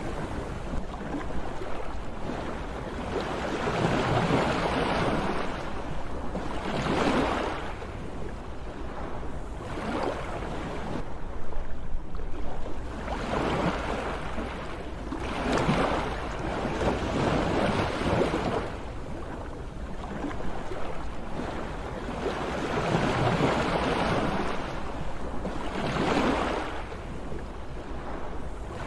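Sea waves washing onto a shore, each one rising and falling away every few seconds over a steady low rumble.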